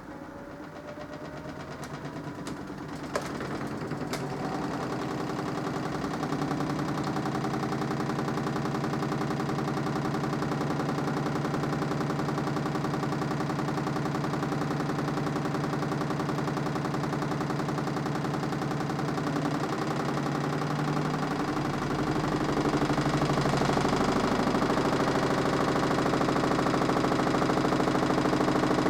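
Mini washing machine's motor speeding up the drum, its hum rising in pitch and loudness over the first several seconds with a few clicks, then running steadily and stepping up louder about 22 seconds in, as in a spin cycle.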